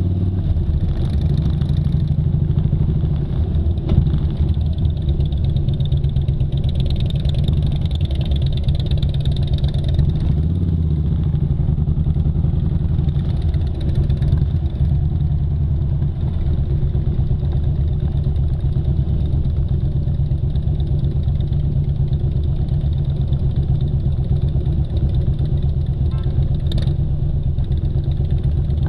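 Motorcycle engine running steadily while riding, its pitch shifting briefly about ten seconds in, with a sharp knock around four seconds.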